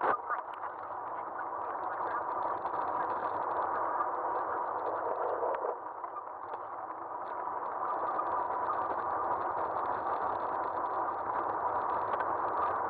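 Steady riding noise of an Aostirmotor S17 electric bike, picked up by a camera mounted on its front end: a continuous rushing noise with a faint steady whine and a few small clicks, easing briefly about six seconds in.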